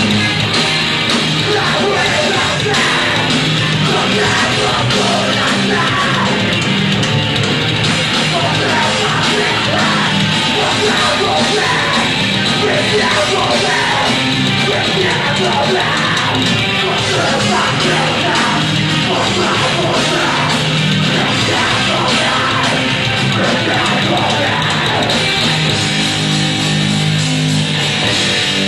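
Live heavy rock band playing loudly, with a vocalist yelling over the electric guitars.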